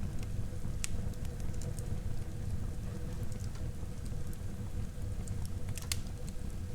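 Wood fire burning in a fireplace: a steady low rumble of flames with scattered crackles and pops, a sharper pop about a second in and a couple more around six seconds in.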